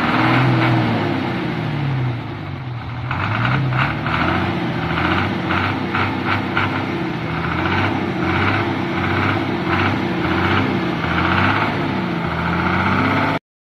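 Truck diesel engine revving up and down again and again, its pitch rising and falling in repeated swells, cut off suddenly near the end.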